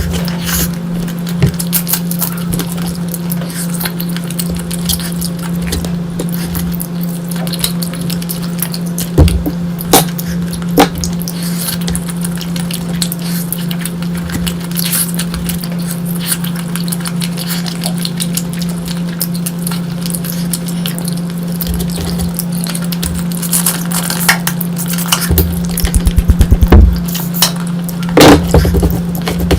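Close-miked eating sounds: chewing with scattered clinks and scrapes on a plate, over a steady low hum. A quick run of louder knocks comes near the end.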